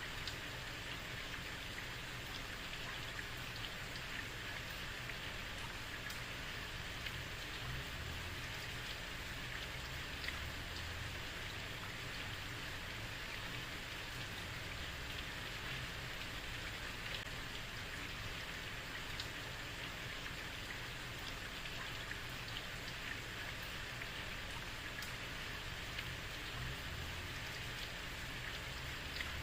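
Steady heavy rain falling on a street, an even hiss of rain with many small drop ticks and a faint low rumble beneath.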